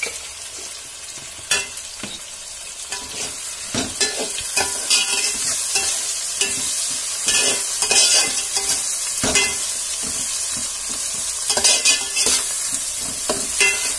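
Onions, tomatoes and green chillies frying in oil in an aluminium pot, a steady sizzle, with a steel spoon stirring and scraping against the pot in irregular strokes. The sizzle and stirring grow louder about four seconds in.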